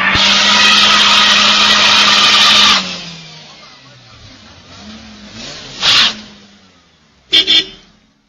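Car at speed: a steady engine note under loud rushing noise, which stops abruptly about three seconds in, followed later by a couple of short bursts of noise.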